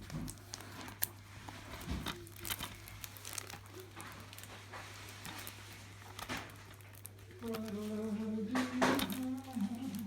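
Plastic wrapping on a DVD case crinkling with scattered sharp crackles as it is handled and opened, over a steady low electrical hum. In the last two or three seconds a louder pitched, wavering voice-like sound comes in.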